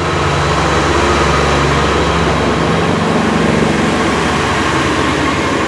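Diesel train engine idling at the platform: a steady low hum, with a slightly higher tone joining in for about a second and a half around the middle.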